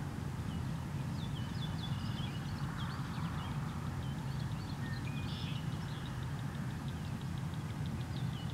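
Small birds chirping and singing in quick short notes over a steady low rumble.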